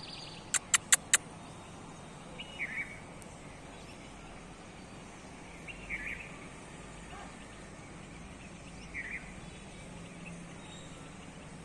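Outdoor background noise with a small bird chirping briefly three times, a few seconds apart. Four sharp clicks come in quick succession about half a second in.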